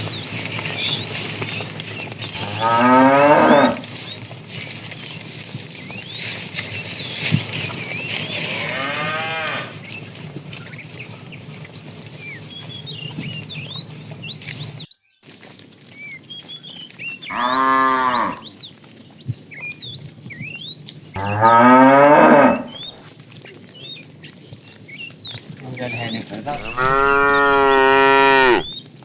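Cattle mooing: five moos a few seconds apart, each one to two seconds long, the last the longest. Faint short bird chirps between the calls.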